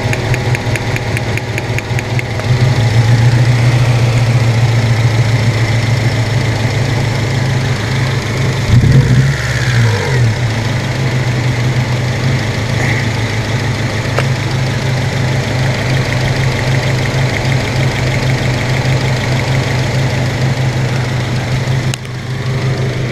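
Honda D16Y8 four-cylinder engine idling roughly with a steady pulsing note, misfiring on one cylinder because of a damaged spark plug boot. A fast ticking sits over it in the first couple of seconds, and there is a brief loud knock about nine seconds in.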